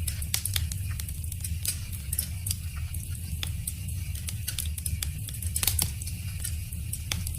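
Wood fire crackling: irregular sharp pops and snaps from burning wood over a steady low rumble of the flames.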